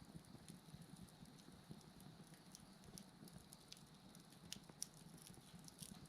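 Faint wood bonfire crackling with scattered small pops and a low flame rumble, over a steady high drone of insects calling.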